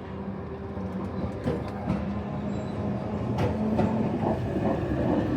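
An old tram drawing closer along the rails: a steady hum under clacks and knocks from its wheels, growing louder as it approaches.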